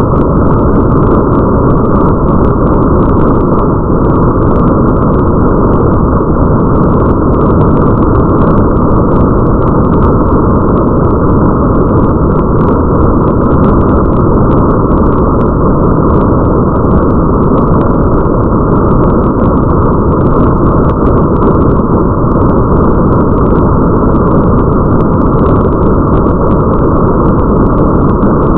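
Steady muffled rain ambience: a deep, even rushing rumble with faint crackling of drops scattered over it.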